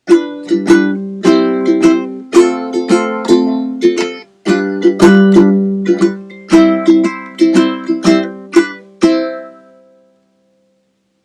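A ukulele played in a short melodic phrase of plucked and strummed chords, each ringing and fading, with a brief break partway through. The playing stops about nine seconds in and the last chord rings out.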